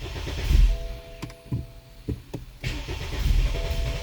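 BMW N20 turbocharged four-cylinder engine turning over on the starter without catching, in uneven pulses with a brief lull in the middle: the crank-no-start fault, with spark and injectors reported OK.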